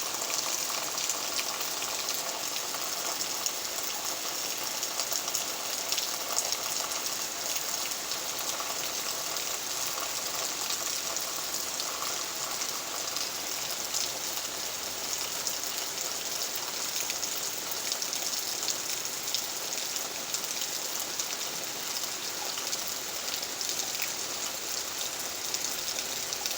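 Steady rain, a continuous hiss with a dense patter of drops.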